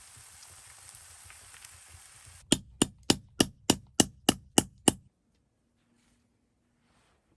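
Nine quick, evenly spaced hammer blows, about three a second, loud and sharp, over a faint background hiss; the sound then cuts off suddenly.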